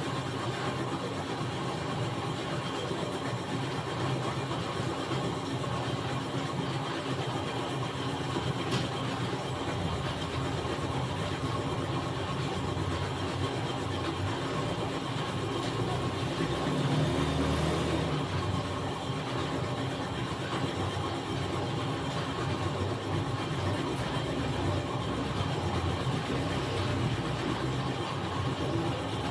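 A steady mechanical hum of a running engine or motor, swelling briefly about seventeen seconds in.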